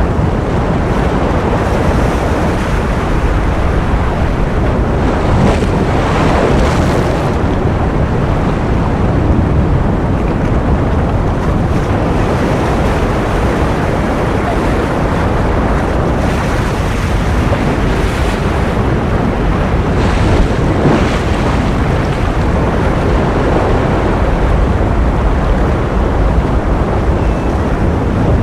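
Ocean surf: a steady rushing wash of waves, with broken waves swelling a little louder every few seconds.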